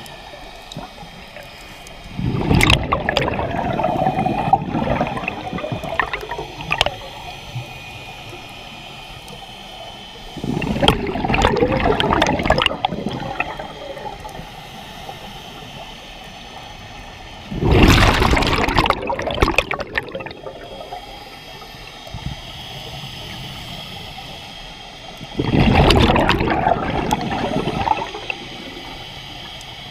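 Scuba diver's exhaled bubbles from a regulator underwater: four bubbly rushes, each two to three seconds long, about every eight seconds, with a steady lower background between.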